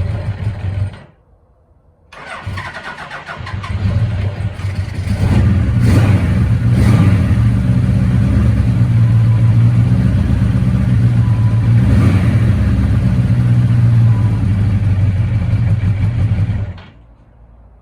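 Suzuki GS1000G air-cooled inline four-cylinder motorcycle engine, freshly rebuilt and running through its exhaust. It breaks off about a second in, picks up again a second later and is revved a few times before settling to steady running. Near the end it cuts off abruptly. There are no major mechanical noises, and the owner takes it to be sounding good.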